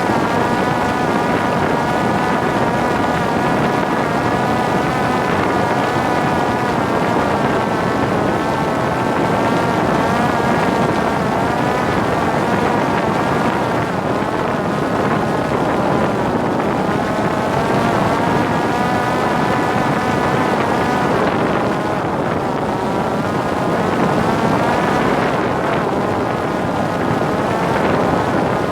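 Parrot Disco fixed-wing drone's electric motor and pusher propeller running in flight, a steady whine whose pitch wavers slightly up and down, with wind rushing over the onboard microphone.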